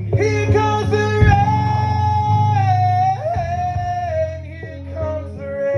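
Live looped bass music: a steady low bass loop under a long held high melody note that slides between pitches.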